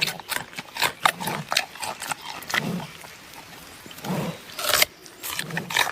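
Giant panda eating: a rapid, irregular series of crunches and chomps as it bites and chews its food, with a few lower munching sounds between them.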